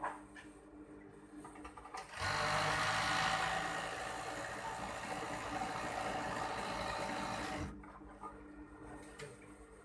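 Overdeck (coverstitch) sewing machine starting about two seconds in and sewing at a steady speed for about five seconds with a constant motor hum, then stopping abruptly. A few light clicks come before and after.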